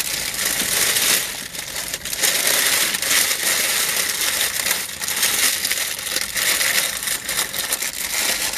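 Loud, continuous crunching of someone chewing crunchy food close to the microphone.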